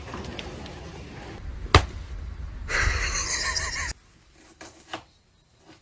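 A single sharp bang about two seconds in over a steady background hiss, then a short noisy stretch that cuts off abruptly to quiet with a few faint clicks.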